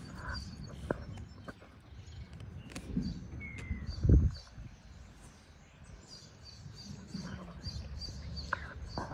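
Small birds chirping in the background over low wind and handling rumble on a phone microphone, with one loud low bump about four seconds in.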